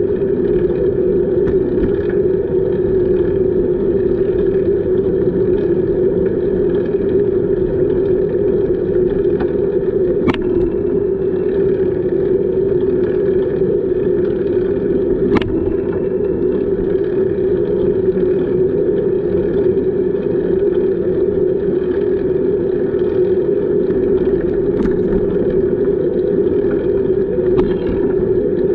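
Steady rushing noise of a bicycle on the move, wind and tyre noise on the camera's microphone. A few sharp clicks come in along the way.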